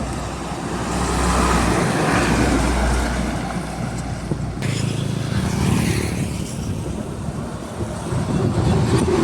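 Diesel trucks driving past on a road: a low engine rumble with tyre and road noise, which changes abruptly a little under halfway through as one vehicle goes by and the next comes on.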